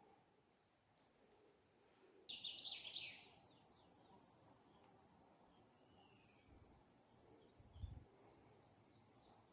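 Faint bird chirps: a quick burst about two seconds in, then a few short scattered calls. A steady high hiss sets in with the first chirps and cuts off near the end.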